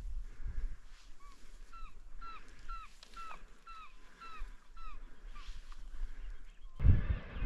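A bird calls a run of about ten clear, falling notes, roughly two a second, over a low rumble. Near the end, a much louder jumble of many bird calls cuts in abruptly.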